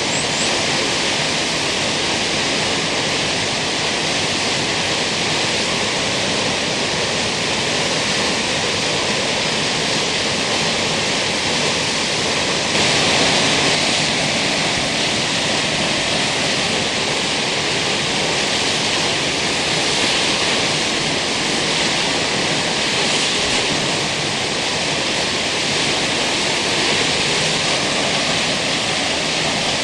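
Steady rush of a large waterfall, Kegon Falls, its water plunging into the basin below.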